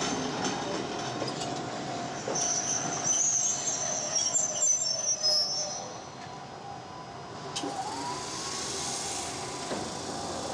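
Izuhakone Railway Daiyuzan Line electric train pulling in and stopping, its brakes squealing in high tones for a few seconds. About seven and a half seconds in comes a short burst of hissing air.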